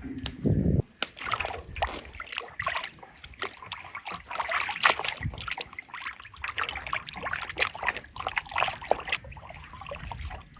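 Water splashing and sloshing in quick, irregular bursts that stop about a second before the end.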